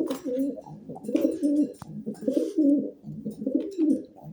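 Male domestic pigeon cooing over and over in low, rolling phrases; this cooing marks the bird as a male.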